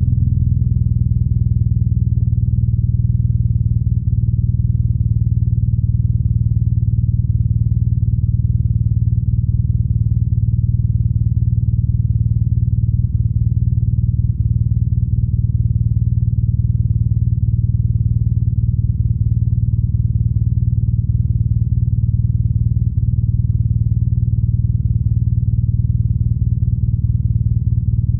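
BMW R nineT's air/oil-cooled boxer-twin engine and exhaust running at a steady, unchanging speed, a low, even rumble.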